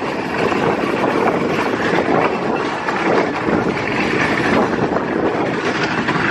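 A loud, steady rumble of a vehicle in motion, with no clear rhythm or single events.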